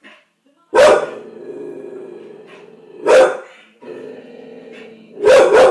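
Bull terrier barking in a fit: three loud barks about two seconds apart, with drawn-out low growling between them.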